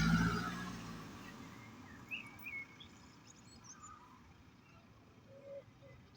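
A motor vehicle passes close by, its engine fading away over the first second or so. After that comes quiet outdoor ambience with a few short bird calls.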